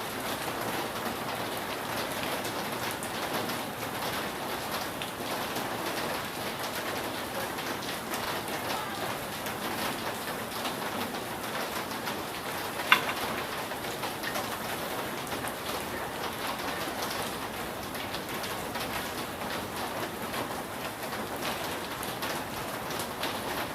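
Steady rain falling on a roof, a dense even spread of fine drops, with one sharp, louder drop hit about halfway through.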